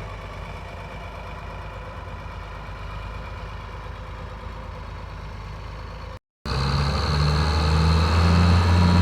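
Diesel tractor engine running steadily. About six seconds in the sound breaks off for a moment, and a much louder tractor engine follows, close by and pulsing evenly.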